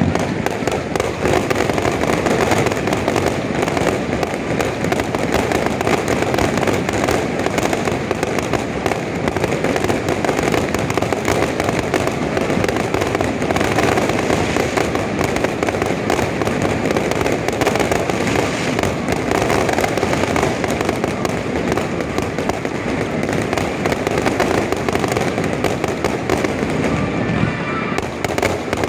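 A rapid, continuous barrage of fireworks shells bursting and crackling over one another, with music playing alongside. The barrage thins slightly near the end.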